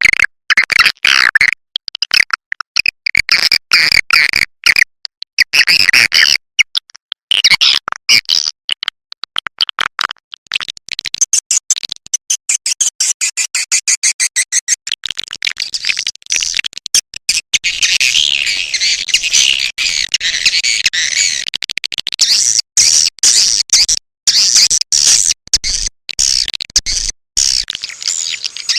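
Swiftlet call recording: rapid, choppy high-pitched chirps broken by short gaps, turning about halfway into denser, higher, almost continuous twittering. It is a call track of the kind played from swiftlet houses to lure swiftlets to roost and nest.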